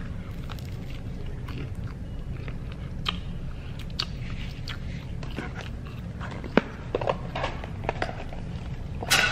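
A person biting into and chewing a fried snack close to the microphone, with scattered sharp mouth clicks and crunches.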